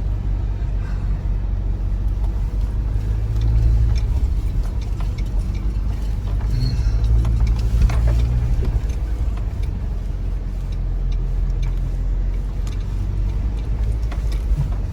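2025 Chevy Colorado ZR2 pickup crawling slowly along a rough dirt trail: a steady low engine and drivetrain rumble with tyre and road noise, and a brief knock about eight seconds in.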